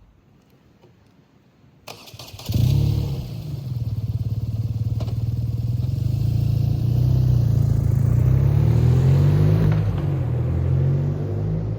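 BMW R 12 G/S motorcycle's boxer-twin engine being started: the starter turns over briefly about two seconds in, the engine catches with a loud burst about half a second later, then settles into a steady idle through an aftermarket Hattech exhaust.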